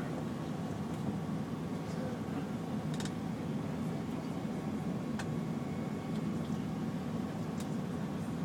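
Steady cabin noise inside an Airbus A380 airliner: an even, low rumble of airflow and engines, with a faint steady tone and a few light clicks about three and five seconds in.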